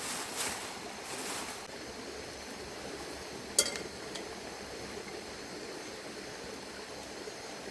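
Food being handled at a camp cook spot: rustling and shaking for the first second and a half or so, then a steady background hiss. A single sharp clink comes a few seconds in, followed by a fainter one.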